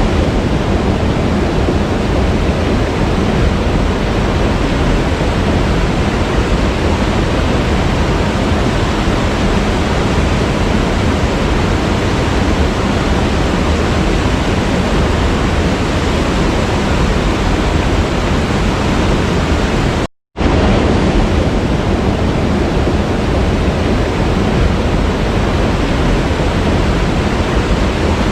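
Waterfall: a steady, loud rush of falling water. It cuts out to silence for a fraction of a second about twenty seconds in, then resumes unchanged.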